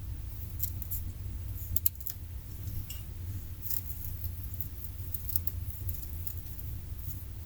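Scattered small clicks and crinkles from hands working tinder and kindling to start a fire, over a steady low rumble.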